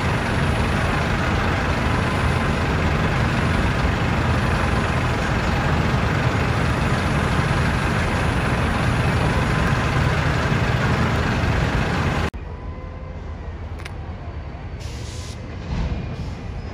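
Freight cars rolling slowly on the track: a steady, loud rumble and rattle with faint wheel squeal rising and falling. About twelve seconds in it cuts to a quieter rumble of an approaching diesel switcher locomotive.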